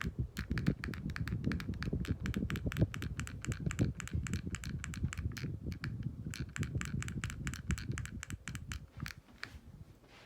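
Minka Aire Concept II ceiling fan running on high, giving a low rumble with rapid, irregular crackling clicks over it; both die away about nine seconds in.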